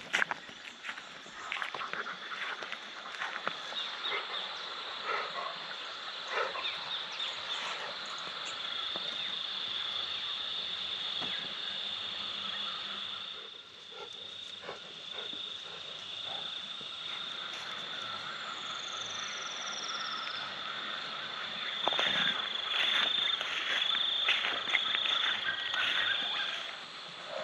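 Frogs calling over a steady high drone of night insects, with many short croaks and clicks. The calling grows louder and faster near the end.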